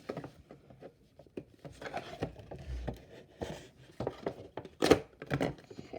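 Cardboard box of a model airliner being handled and rubbed: scattered light taps, scrapes and rustles, with one louder knock about five seconds in.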